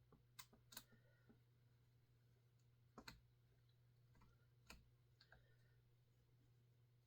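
Faint, scattered clicks and light metallic taps of an Allen key and small chainsaw parts being handled while screws are undone, over a low steady hum. The louder clicks come about half a second in, just under a second in, around three seconds in and near five seconds in.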